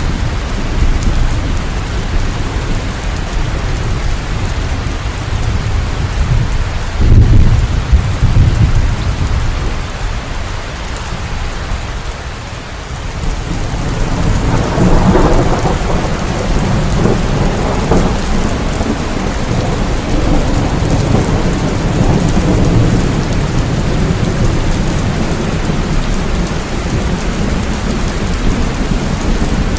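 Heavy rain falling steadily with rolling thunder: a deep rumble about seven seconds in, and a longer rumble that builds about halfway through and dies away slowly.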